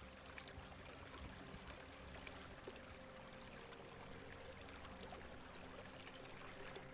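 Faint, steady rush of a small stream flowing over stones.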